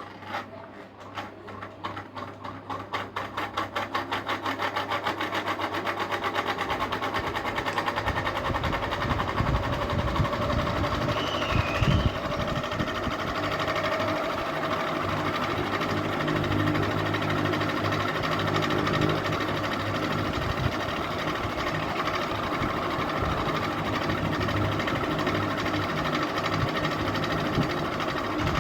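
Ceiling fan switched on with a click, then spinning up: a rhythmic beat that quickens over the first few seconds and settles into a steady whir.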